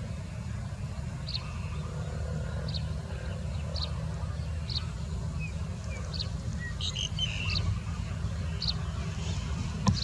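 Short, high bird chirps, roughly one every second, with a brief cluster of notes a little past the middle, over a steady low rumble.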